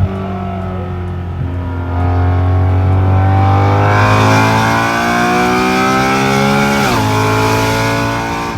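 BMW E93 M3's 4.0-litre S65 V8, exhausting through a catless resonated X-pipe, under hard acceleration. The pitch climbs steadily for several seconds, drops sharply at an upshift about seven seconds in, then climbs again.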